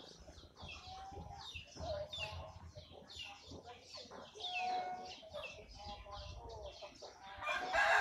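Birds calling: a steady run of short, high, falling chirps, several a second, mixed with lower clucking notes. A louder, fuller call comes near the end.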